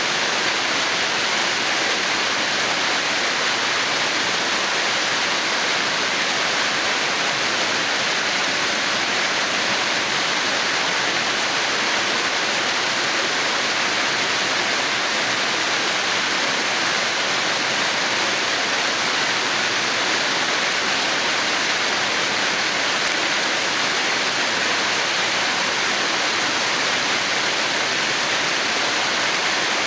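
Waterfall pouring steadily: a constant, even rushing hiss of falling water with no breaks or changes.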